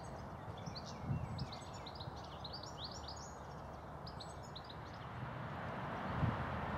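Small songbirds chirping and twittering in quick, rapid notes over a steady background hiss, with a few low thuds. The chirping is densest in the first few seconds.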